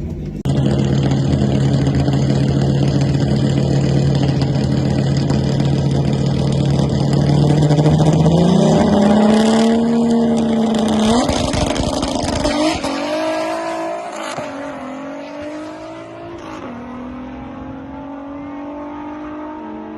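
Volkswagen Rabbit drag car's engine held at steady revs on the start line for several seconds, then launching and revving up through the gears, its pitch climbing and dropping back at about three shifts. It grows quieter in the second half.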